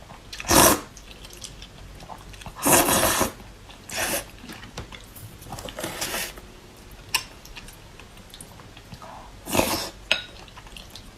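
Close-up eating of spicy fire-chicken instant noodles: about five short, loud slurps of noodles, with chewing and a few light clinks of utensils against the bowl in between.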